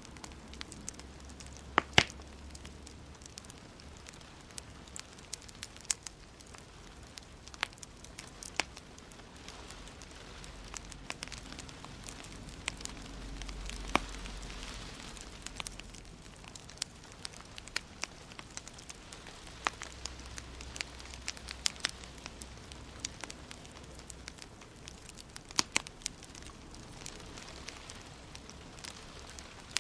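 Wood fire crackling in a fireplace: irregular sharp pops and snaps over a soft steady hiss, with the loudest pops about 2 seconds in and again in the middle.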